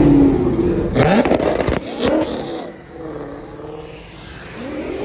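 A car engine revving and accelerating hard, rising in pitch about a second in with a harsh, rasping exhaust burst, then fading away as the car leaves. Another engine rises near the end.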